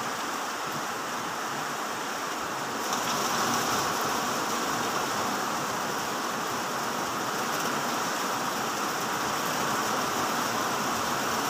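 Steady rain falling, a continuous hiss that gets a little louder about three seconds in.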